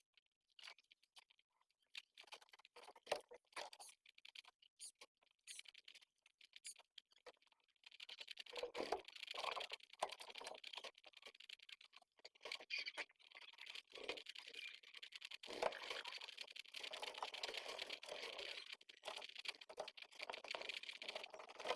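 Pigeons and squabs stirring in the nest, faint. Scattered small taps and scratches give way about eight seconds in to a steady crackling rustle.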